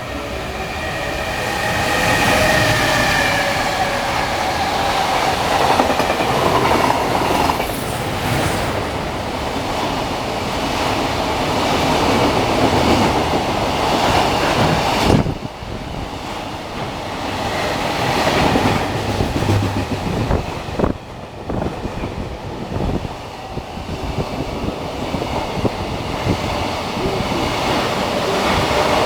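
A freight train hauled by an electric locomotive passes close by. For the first several seconds there is a set of steady tones over the rumble of the wheels. After that the wagons rumble and clatter over the rail joints.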